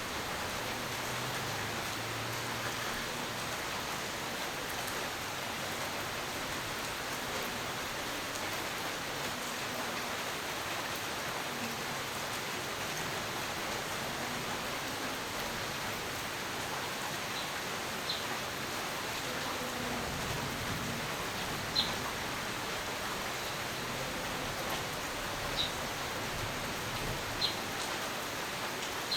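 Steady rain falling, an even hiss of drops, with a few sharp single drips standing out in the second half.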